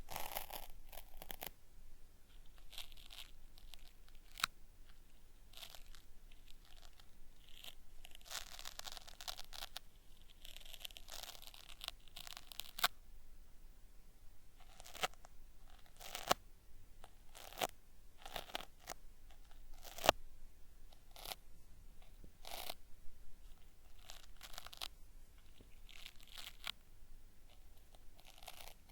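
Cotton swab working in the ear of a binaural microphone, making irregular crackling, peeling sounds ('beri-beri') with scattered sharp clicks and a denser stretch of scratching partway through.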